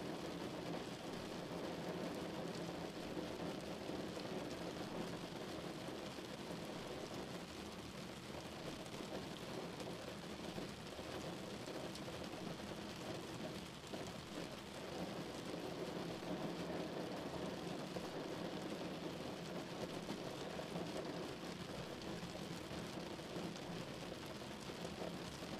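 Rain and wet-road driving noise heard from inside a moving car: a steady hiss of rain on the glass and of tyres on the wet road over the low hum of the car.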